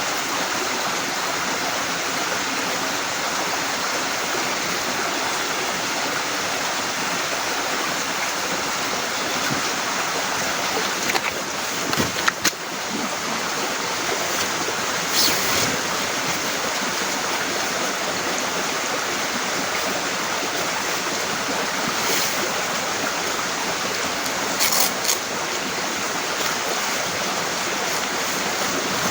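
Heavy rain falling steadily, a dense even hiss. A few short knocks or taps break through it around the middle and once more near the end.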